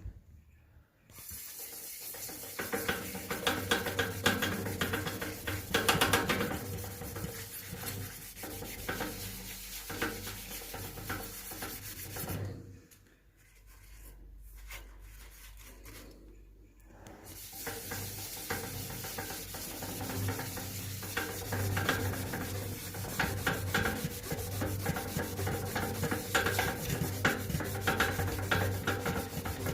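A wet sponge loaded with wood ash scrubbing soot off the glass of a stove door, a continuous rapid rubbing and scraping with the ash acting as the abrasive. The scrubbing drops away for a few seconds near the middle, then picks up again.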